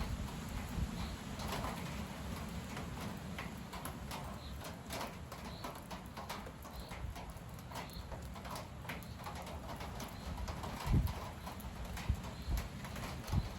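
Strong gusty wind rumbling on the microphone, with two heavier buffets near the end, under many sharp irregular clicks and taps and a few faint bird chirps.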